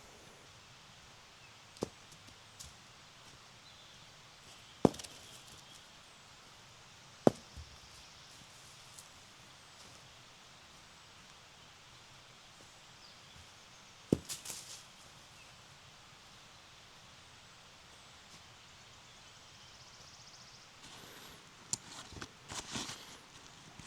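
Four sharp single knocks, several seconds apart, over quiet outdoor ambience. Rustling and handling noises build near the end.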